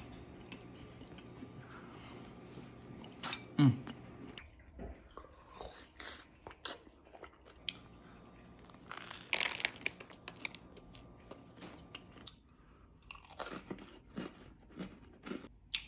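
A person biting and chewing food close to the microphone, with many small crisp crunches coming in bursts, thickest near the end. About a quarter of the way in there is one short, louder sound that falls in pitch.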